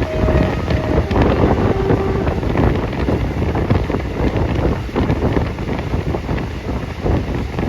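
Heavy wind buffeting on the phone's microphone, a loud, gusting low rumble, with a few short steady tones in the first two seconds.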